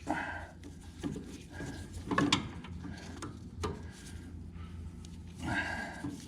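Sharp clicks and knocks of a makeshift tool being worked against a John Deere L120 lawn tractor's spin-on oil filter to turn it loose, over a low steady hum.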